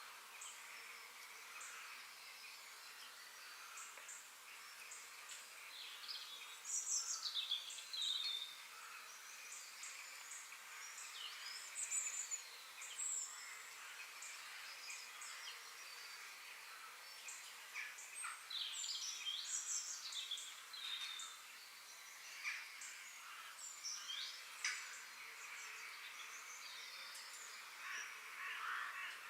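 Forest ambience: several birds chirping and calling in short, scattered phrases over a steady, faint background hiss, with louder calls about seven and twelve seconds in.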